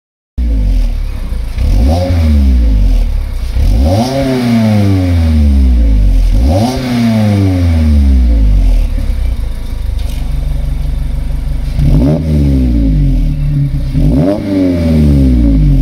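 Mazda MX-5 ND four-cylinder engine heard through an Ulter-Sport electric-valve sport exhaust, revved in repeated quick blips. Each blip rises sharply and falls back slowly, about five in all, with a steadier held stretch in the middle.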